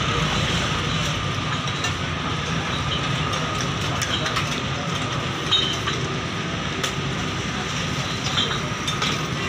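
Steady sizzling of chicken liver (kaleji) frying in oil on a large steel tawa over a gas flame, with a low rumble underneath. A few sharp metal clinks from the spatula striking a steel serving plate and the tawa's rim.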